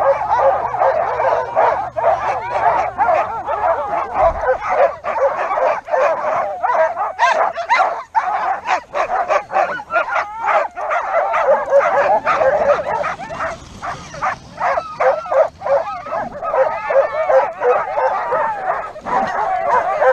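A team of sled dogs barking, yipping and whining all at once: a loud, constant din of overlapping calls with no break.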